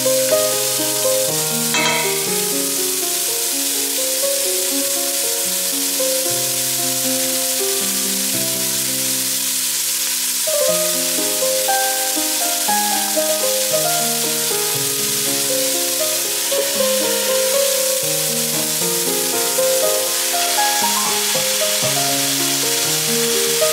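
Diced onions and ham sizzling in olive oil in a stainless steel pot as they are stirred with a wooden spatula, with one knock about two seconds in. Background music of held notes plays over the sizzle.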